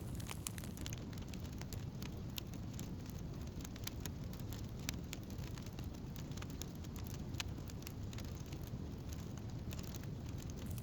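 Wood campfire crackling, with frequent irregular small pops over a steady low rumble of burning.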